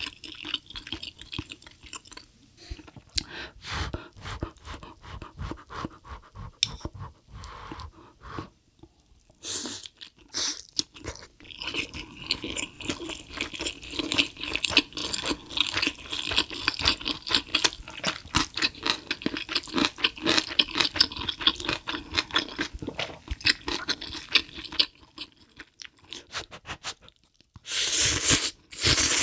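Close-miked chewing and crunching of food: dense, irregular crackles, with a brief louder rush near the end.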